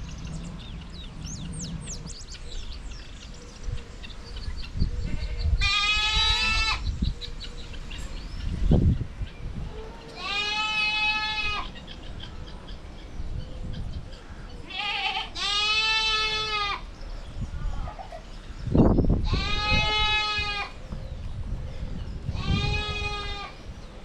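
Goats bleating: five drawn-out calls of about a second each, a few seconds apart, with a couple of low thuds in between.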